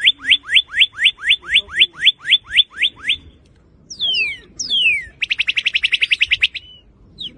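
Northern cardinal singing: a run of about a dozen quick downslurred whistles, about four a second, then after a short pause two longer falling whistles and a fast trill.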